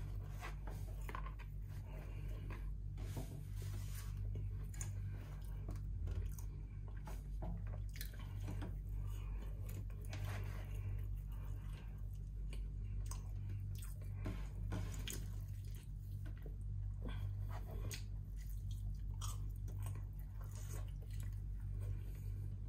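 A person eating chicken and chips: chewing and biting, with many small irregular wet clicks and smacks, over a steady low hum.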